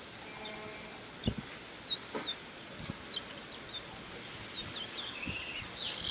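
A small songbird chirping: a run of quick, high whistled notes that slide downward, some in rapid little clusters, with a few low knocks mixed in.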